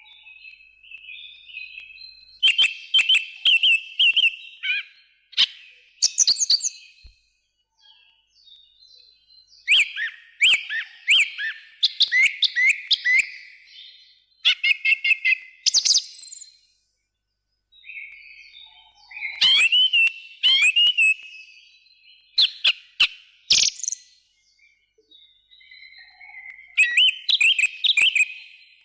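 Songbird singing: bursts of quick, sweeping chirps and sharp chip notes in repeated phrases, with short pauses between them and a longer break a little past the middle.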